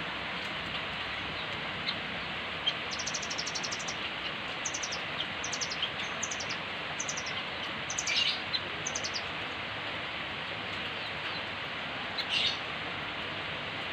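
Rembetan bird (velvet-fronted nuthatch) calling in a series of short, rapid high trills, with two louder sharp calls sweeping down in pitch about eight seconds in and near the end, over a steady hiss.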